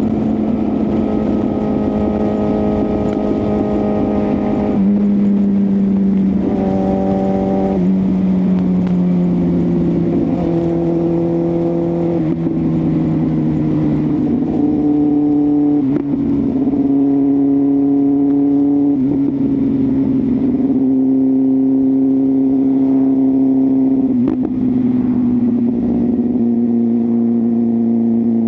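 BMW S1000RR inline-four engine with a full exhaust system, running at moderate, fairly steady revs. The pitch steps up and down every few seconds with the throttle and eases slowly lower overall.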